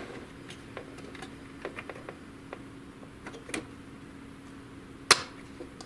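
Small plastic clicks and taps as the snap latches of a plastic rail inside an HP DeskJet GT 5820 printer are pressed and the rail is worked free, with one sharp click about five seconds in. A faint steady hum runs underneath.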